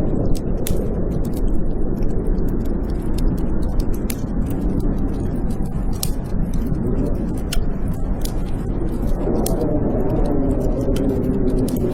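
Blizzard wind howling, with slow rising and falling moans, over a wood fire in a fireplace crackling with frequent sharp irregular pops.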